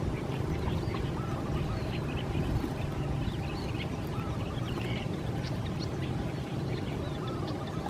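Water birds calling in a swamp: many short high chirps and a few duck-like quacks, over a steady low rumble.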